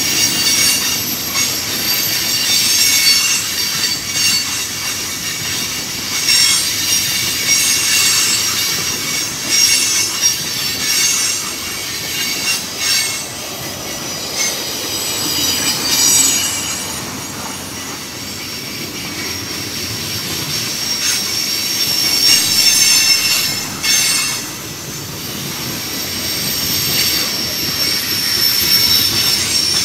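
Freight cars rolling past close by, their wheels squealing on the rails in several steady high-pitched tones, with an occasional clank.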